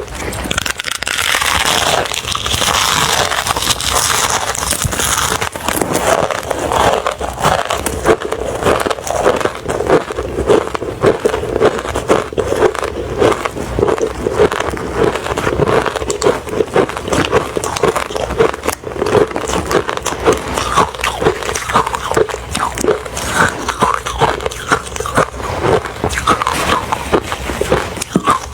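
Close-up chewing and crunching of refrozen crushed ice, crunch after crunch at a steady chewing pace, with a denser burst of crunching in the first few seconds.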